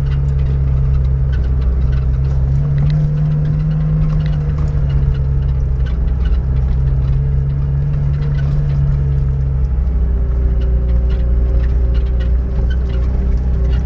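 Niva 4x4's engine running under steady load on a steep dirt climb, its note shifting about ten seconds in, with frequent short knocks and rattles from the rough track.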